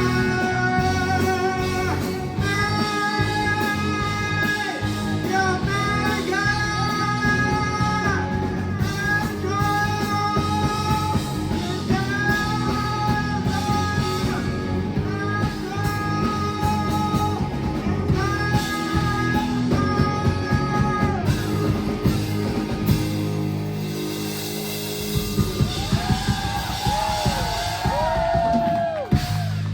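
Live rock band playing with guitar, drums and a singer holding long sung notes in repeated phrases; about two-thirds of the way through the singing stops and the band plays on with sliding high notes, easing off right at the end.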